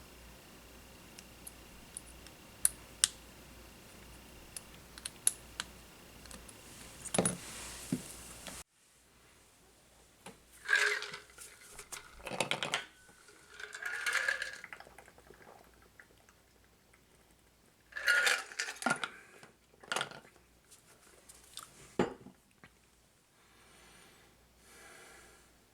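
Small tools and drone parts handled on a workbench: scattered sharp clicks and light clinks, then a few short bursts of scraping and rustling.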